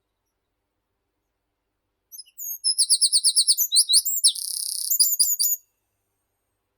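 A songbird sings one high-pitched phrase about two seconds in, lasting some three seconds. It opens with a fast run of repeated notes, passes through a short buzzy stretch and ends with a few quick notes.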